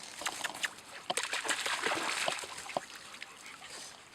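German Shepherd dog splashing through a shallow stream, a quick run of splashes that is busiest from about one to two and a half seconds in.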